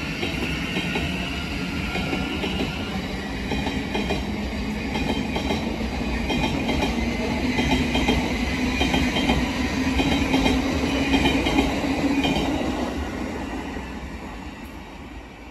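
Thameslink Class 700 electric multiple unit running past on the rails, its wheels and running gear rumbling. The sound builds to its loudest about three-quarters of the way through, then fades over the last few seconds as the train draws away.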